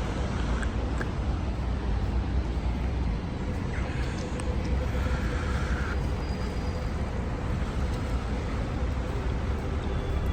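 Street traffic: a steady low rumble of passing vehicles, with a brief higher whine a few seconds in.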